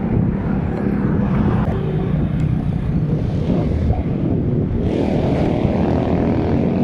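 Road noise while cycling in traffic: wind buffeting the microphone, with engines of nearby motor vehicles running alongside.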